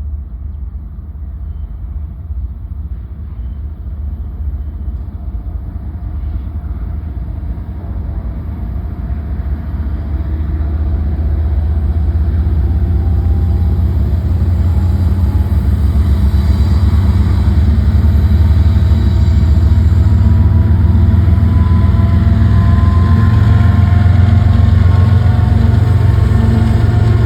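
Diesel freight locomotives running with a deep, steady engine rumble, growing louder over the first half as the train draws closer, then staying loud.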